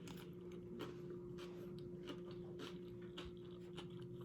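Faint chewing of nachos close to the microphone: soft, irregular crunches and mouth clicks, over a steady low hum.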